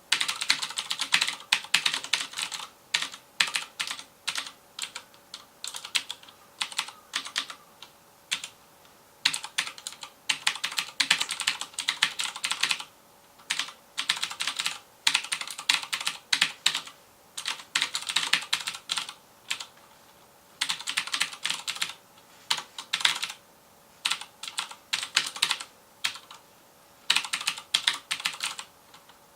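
Fast typing on a FILCO Majestouch Convertible 2 mechanical keyboard with Cherry MX Blue switches: sharp clicky keystrokes in rapid runs, broken by brief pauses of about a second.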